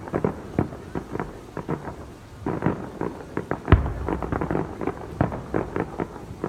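Fireworks going off in rapid, irregular bangs and crackles, with one louder boom a little past halfway and a low rumble throughout.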